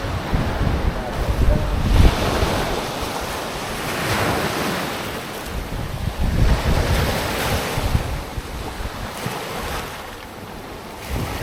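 Wind buffeting the microphone: a rushing noise that swells and fades every couple of seconds, with gusty rumble underneath.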